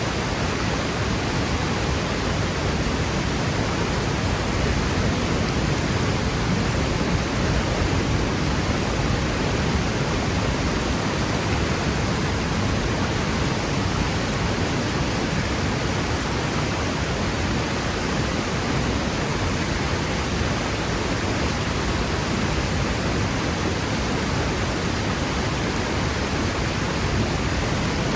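Waterfall pouring steadily, a constant full rush of falling water with a deep low rumble.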